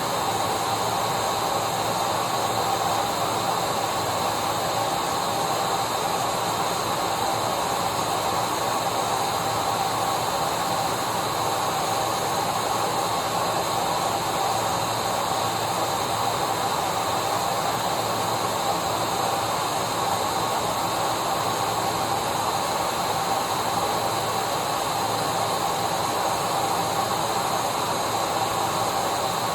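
Vacuum cleaner running steadily: an unchanging motor whine over a constant hiss of rushing air.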